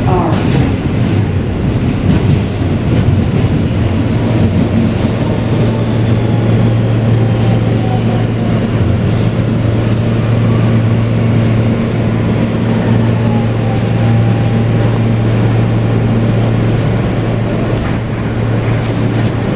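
NYC subway R160B car with Siemens propulsion running at speed, heard from inside the car: a steady wheel-on-rail rumble over a low motor hum. A faint falling whine comes through the middle, and a few sharp clicks come near the end.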